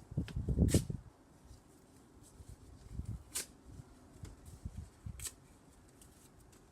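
Soft knocks and rustling from things being handled, with a few sharp clicks; the loudest knocks come about half a second in.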